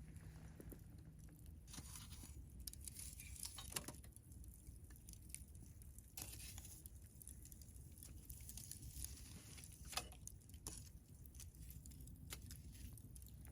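Wood campfire crackling faintly, with scattered small snaps and a couple of sharper pops, about four seconds in and again about ten seconds in, over a low steady rumble.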